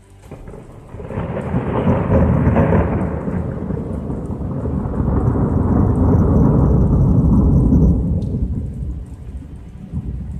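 Long rolling rumble of thunder that builds about a second in, stays loud for several seconds and fades near the end, with rain falling underneath.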